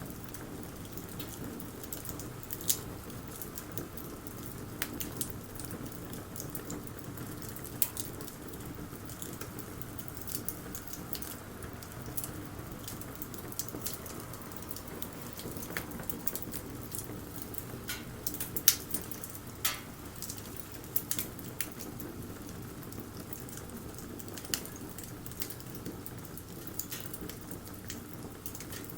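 Wood bonfire crackling, with irregular sharp pops and snaps over a steady low rush of burning.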